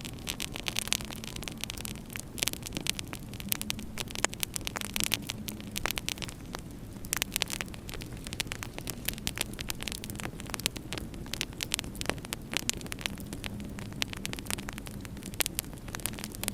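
Wood fire crackling in a fireplace, with many irregular sharp snaps and pops, over a low steady hum.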